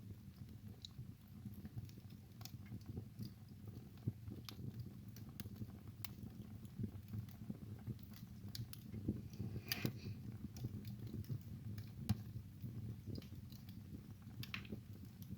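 Wood fire burning in a fireplace, crackling with irregular small pops and snaps over a low, steady rumble of the flames. A louder snap comes about twelve seconds in.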